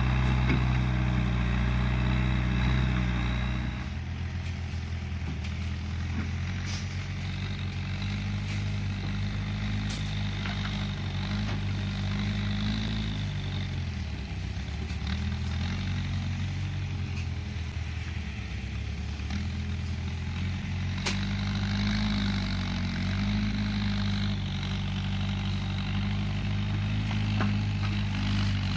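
Case 580G backhoe loader's diesel engine running under changing load, its pitch rising and falling as it works; louder for the first few seconds, then it drops back. A few sharp knocks cut through.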